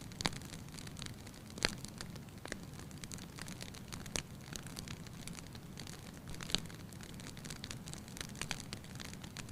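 Wood fire in a fireplace crackling, with irregular small pops and a few louder snaps about a quarter second, one and a half, four and six and a half seconds in, over a steady low rumble.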